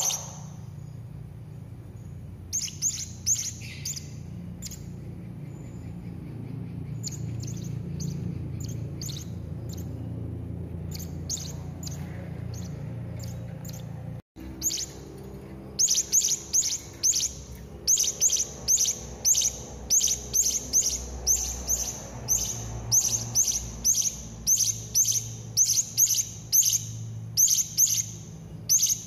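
Serindit (hanging parrot) calling in a run of short, shrill, high-pitched chirps over a steady low hum. The chirps come in scattered groups at first, drop out briefly about halfway, then come close together at about two a second.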